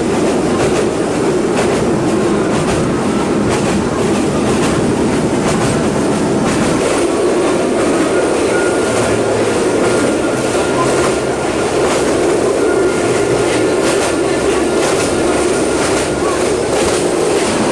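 Passenger train running along the track, a steady rumble with the wheels clicking over rail joints throughout.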